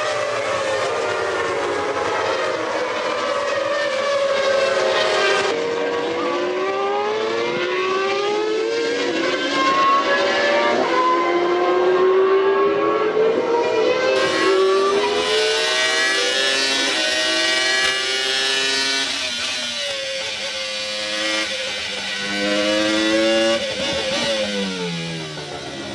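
Formula One car engines running at high revs as cars pass, several at once, each pitch rising and falling as it goes by.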